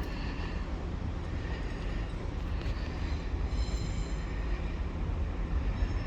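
Steady low engine drone, with faint high thin tones for about a second midway.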